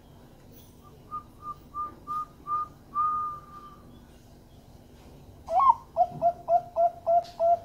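Perkutut (zebra dove) song: a run of five short whistled coos ending in one long held note, then after a pause of a second or so a lower-pitched series of about seven quick coos starting with a rising note.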